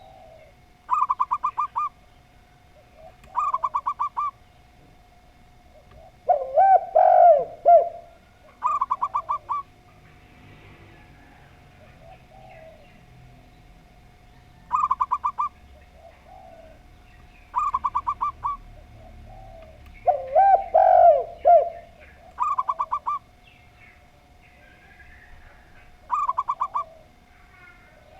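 Two doves calling in turn: a zebra dove gives short bursts of rapid, higher-pitched stuttering coos every few seconds, and twice a spotted dove answers with a louder, lower, longer multi-note coo.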